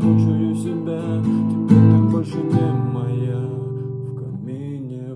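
Acoustic guitar strumming chords. There are a few strokes in the first three seconds, then one chord is left ringing and slowly fades.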